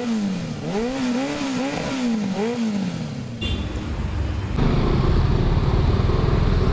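BMW G 310 RR's single-cylinder engine revving up and down in a quick series of rises and falls for about three seconds. About four and a half seconds in, a loud, steady low rumble of riding noise takes over.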